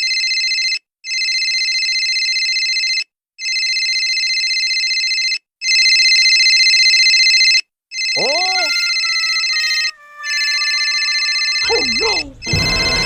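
Electronic ringing tone like a phone ringtone, sounding in repeated bursts about two seconds long with short gaps between them. A few swooping glides in pitch join it about two-thirds of the way through and again near the end.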